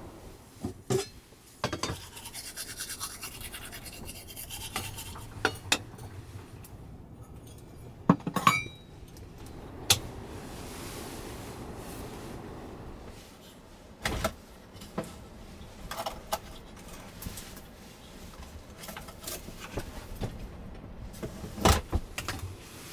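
Scattered clicks, knocks and clinks of small objects being handled, with a stretch of brushing or rustling noise about ten seconds in.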